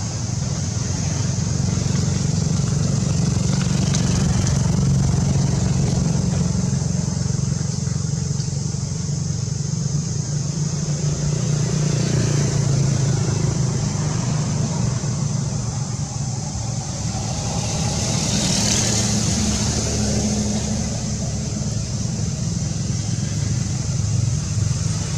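Steady low rumble of road traffic, with a constant high-pitched hiss that swells briefly near the end.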